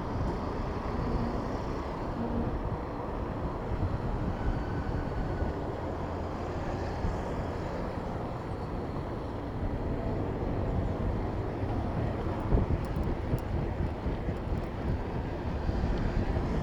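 Wind rumbling on the microphone of a moving bicycle, over a steady wash of city road traffic. A single sharp knock about twelve seconds in.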